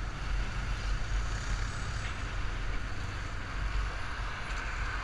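Yamaha Fazer 250's single-cylinder engine running steadily on the move, with a steady rush of wind on the microphone.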